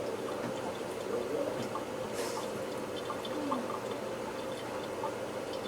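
Faucet running in a steady stream, with small drips and splashes and a brief splash about two seconds in.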